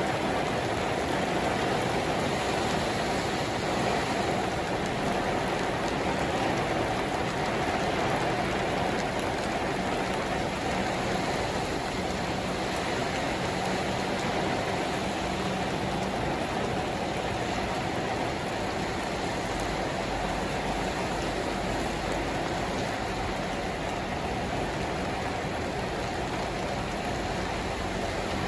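Heavy rain pouring down onto a paved parking lot and wet asphalt, a steady dense hiss that eases a little in the second half.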